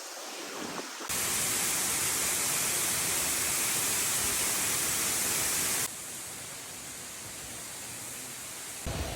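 Falling water rushing steadily, changing abruptly as one waterfall recording cuts to the next: much louder and brighter from about a second in, dropping back to a softer rush near six seconds, and changing again just before the end.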